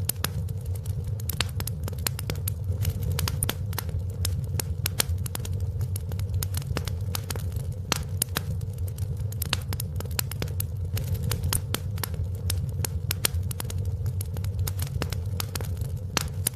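Fireplace fire crackling: dense, irregular sharp pops and snaps over a steady low rumble of the burning fire.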